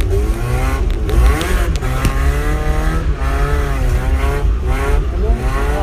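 Mazda MX5 1.6's stock four-cylinder engine driven hard while drifting, the revs climbing and dropping again and again over a heavy low rumble.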